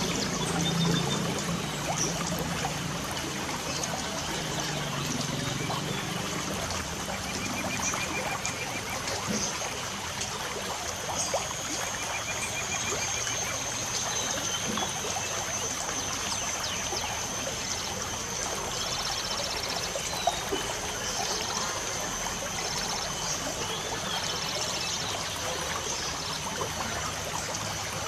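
Light rain falling in a steady patter, with birds chirping in short trills now and then over it. A thin, steady high tone runs through the middle.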